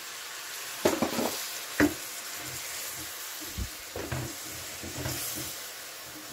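Button mushrooms, small onions and smoked turkey pieces sizzling in olive oil in a pot while being stirred with a spatula, with a couple of sharp knocks of the utensil against the pot about a second in and just before two seconds.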